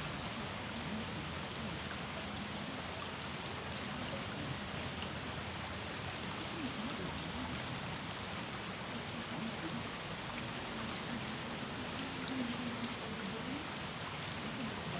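Steady rain falling on a pond's surface, an even patter with a few sharper single drop ticks scattered through it.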